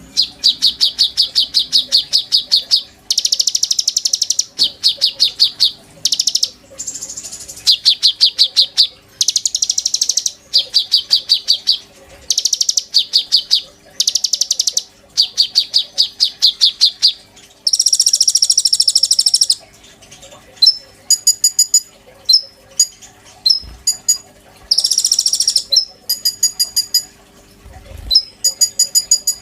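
A konin songbird in full song, singing loud, high, rapid trills in phrases of one to two seconds with short pauses between them. About two-thirds of the way through, the song changes to sharper, clipped chirps spaced out with gaps.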